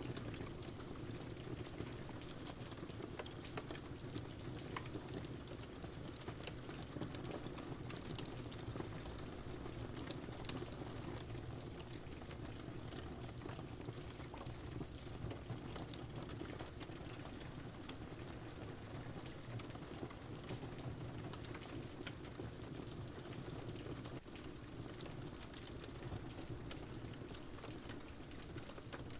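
Steady rain with a crackling wood fire: a constant low rushing patter, dotted with scattered sharp pops and crackles from the burning logs.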